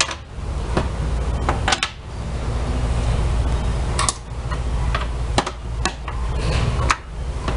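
Metal parts clinking and tapping, about nine separate clicks spread unevenly with a few in quick pairs, as a Whirlpool washing machine's transmission is worked on by hand, over a steady low background rumble.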